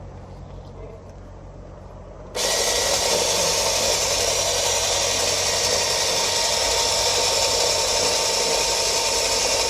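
Electric winch motor starting abruptly about two and a half seconds in and then running steadily with a faint whine, under load as it hauls a heavy snagged object out of the water.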